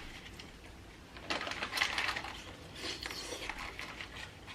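Crab leg shells cracking and crackling as they are broken open by hand: two bursts of close, sharp crackling clicks, one starting about a second and a half in and another near the three-second mark.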